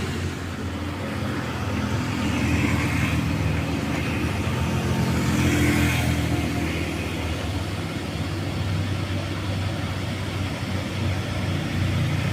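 Heavy truck diesel engine running with a steady low drone.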